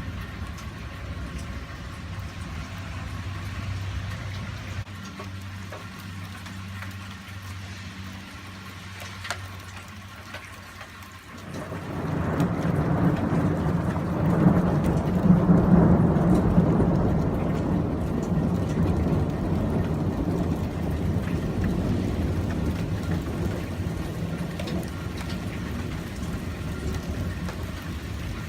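Rain falling steadily, with a long roll of thunder that breaks in about a third of the way through, builds to its loudest a few seconds later and then slowly rumbles away.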